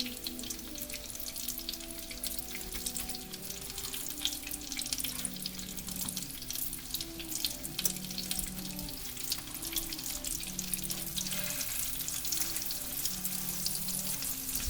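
Breaded chicken breasts frying in hot oil in a skillet, a steady crackling sizzle.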